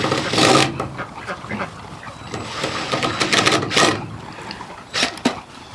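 Ducks quacking loudly in several bouts of harsh calls.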